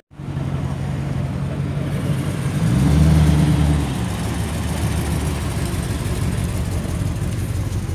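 A car engine running steadily, getting louder for about a second around three seconds in.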